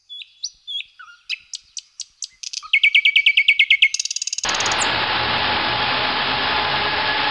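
A songbird singing a string of chirps and quick trills over silence. About four and a half seconds in, this cuts to the steady rushing hiss of fountain jets splashing into a pool.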